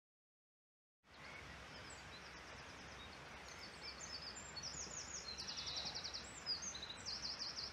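Small birds singing in quick, high trilled phrases over a faint steady outdoor background noise, starting about a second in after silence.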